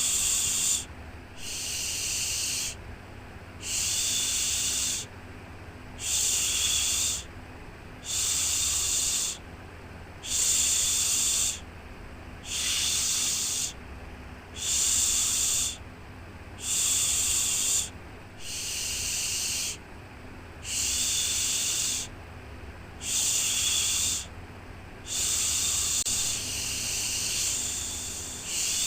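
A soothing baby-calming 'shhh' shushing sound, repeated in even pulses of about a second each, about one every two seconds.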